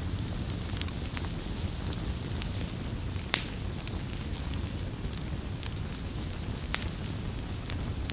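Wood fire crackling and popping irregularly over a steady low rumble of burning, with two sharper pops about three and a half and seven seconds in.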